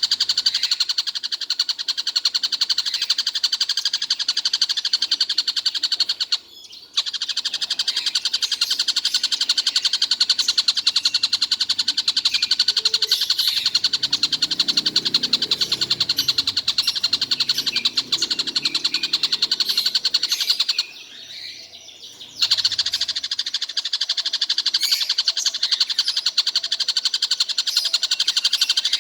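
A kingfisher, the bird Indonesian keepers call tengkek buto, calling on and on in a fast run of high notes, with two brief breaks. A low rumble runs beneath it for several seconds in the middle.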